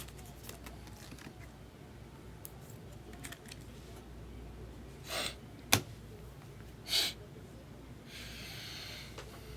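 Quiet handling of trading cards and packs: two short rustles or sniffs with a single sharp click between them, then about a second of soft rustling hiss near the end.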